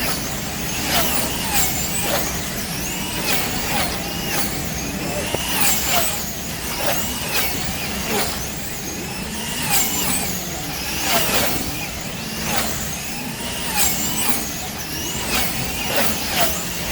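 Several wing-class slot cars lapping the track, their small electric motors whining up and down in pitch over and over as they speed up and slow for the turns, with sharp clicks among them.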